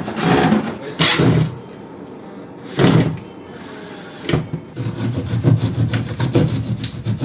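A few loud knocks and scrapes, then a saw cutting plasterboard with quick, even back-and-forth strokes from about two-thirds in.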